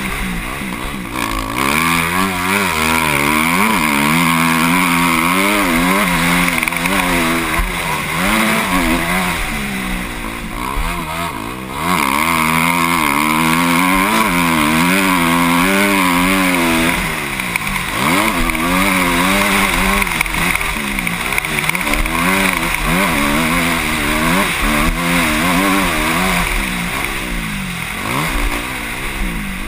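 Motocross bike engine heard from the rider's helmet, its pitch climbing and falling again and again as the throttle opens and shuts and the gears change around the track.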